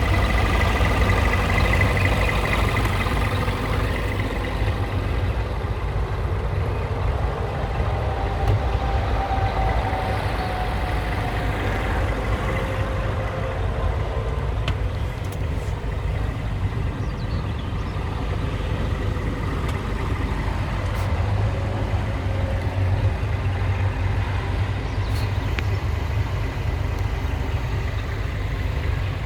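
Scania truck's diesel engine running steadily, heavy at the low end.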